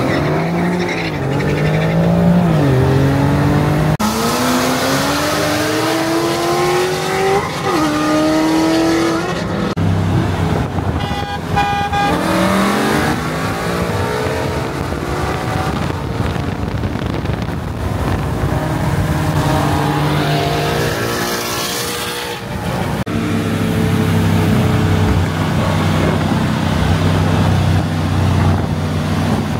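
High-performance car engines accelerating hard, climbing in pitch and dropping back at each gear shift, with stretches of steady engine drone between the pulls.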